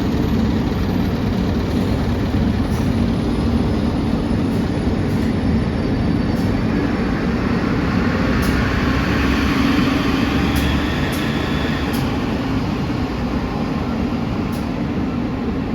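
City bus engine idling steadily after being started, a constant low hum with a rushing noise that swells and fades around the middle.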